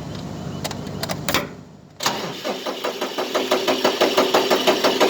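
A few clicks, then about two seconds in a starter motor cranks the diesel engine, with an even pulsing of about five beats a second. The engine does not catch. It is being turned over to test a fuel pump that delivers nothing from its primer, which the owner suspects is faulty.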